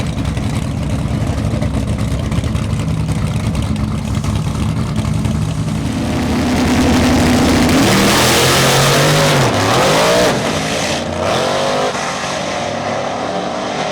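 Drag-racing engines rumbling steadily at low revs, then, about six seconds in, going to full throttle with a loud rising engine note. The pitch dips once and climbs again before the sound eases off in the last few seconds.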